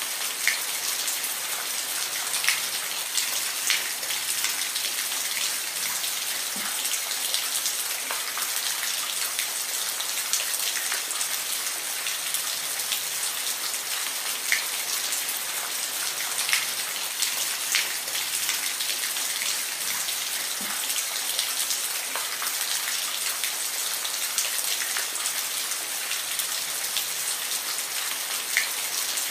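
Steady rain falling on a hard surface, a continuous hiss with many distinct drops ticking and splashing irregularly.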